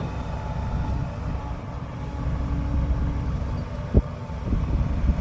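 Heavy diesel machinery running with a steady low rumble, and a single sharp knock about four seconds in.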